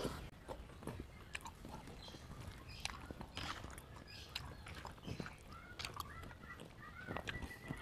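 Quiet chewing of mouthfuls of pentol meatballs in peanut chili sauce, with scattered light clicks of a metal spoon and fork against the plastic plate.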